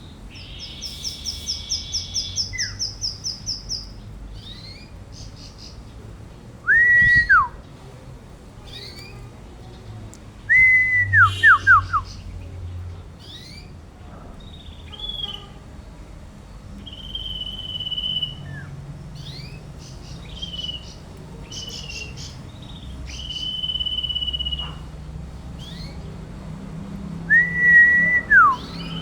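A songbird, the 'sirtu' of Indonesian bird-keeping, singing in full voice. Its song varies: a rapid trill at the start, loud whistles that fall in pitch at about seven and eleven seconds in and near the end, and held steady whistles in between.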